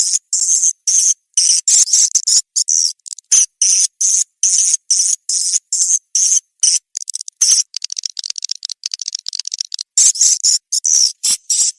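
Swiftlet call track used to lure edible-nest swiftlets into a swiftlet house: loud, high-pitched chirping twitters in short bursts of about three to four a second, with brief silent gaps. In the middle the chirps turn into a denser run of fine, quick chattering.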